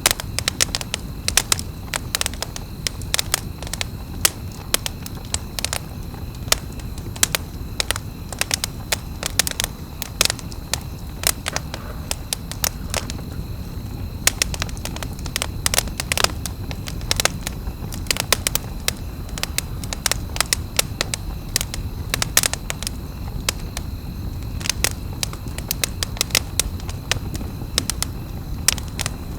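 Campfire burning, wood crackling with many sharp pops a second over a low, steady rumble of flame.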